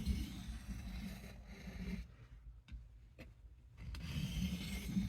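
Knife blade being stroked across a water-lubricated hard sharpening stone, a scraping rasp while honing the edge. The strokes fade out about two seconds in and start again a little before the end.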